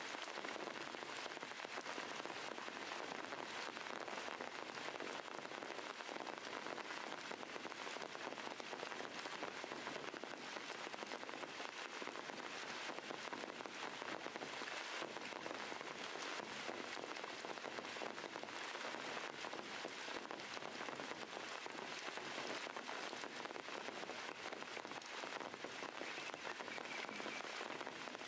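Steady rain falling on stones and leaves: an even hiss with a dense crackle of drops that does not let up.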